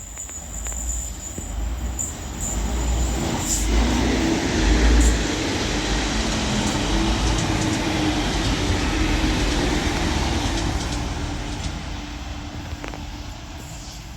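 Two coupled Class 185 diesel multiple units passing through a station at speed without stopping. The noise builds to a peak about four seconds in, holds with a steady engine drone under rushing rail noise, and fades away over the last few seconds. A thin high whine from the rails comes before the train arrives.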